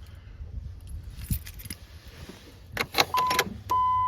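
Car keys jangling and clicking as the key goes into the ignition of a vehicle on a bitterly cold morning. Near the end a steady high electronic warning tone starts from the dashboard.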